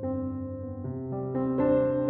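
Background music: soft piano or electric piano playing slow, sustained notes and chords.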